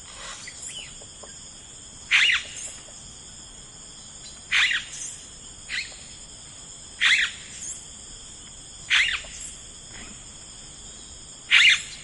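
A bird gives a short, loud call five times, about every two to two and a half seconds, with fainter chirps in between. Underneath runs a steady, high insect chorus.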